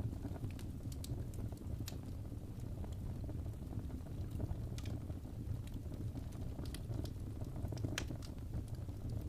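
Wood fire burning in a fireplace: a steady low rush of flame with scattered sharp crackles and pops a second or more apart, the strongest one near the end.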